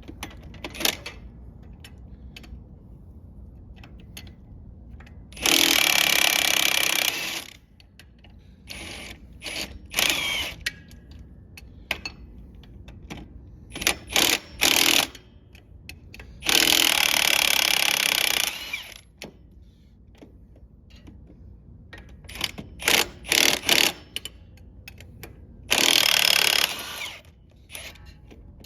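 Impact wrench running in three bursts of about two seconds each, with short blips of the trigger and sharp metallic clicks and clanks in between, as nuts and bolts on a truck's brake and hub assembly are run off or on.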